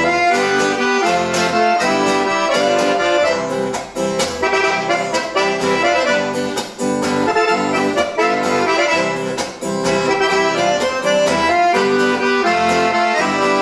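Accordion playing an instrumental break between verses of a sertanejo song, over a rhythmic strummed guitar accompaniment.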